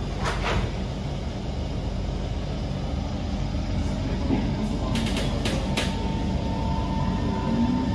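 Cabin noise of a Kawasaki C151 metro train pulling out of a station: a steady low rumble of the running gear with a few short clicks. Near the end the traction motors start a rising whine as the train picks up speed.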